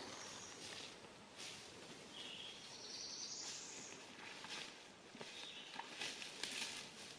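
Faint outdoor ambience with birds calling: a few short high chirps and one longer high call about three seconds in, over a soft steady hiss.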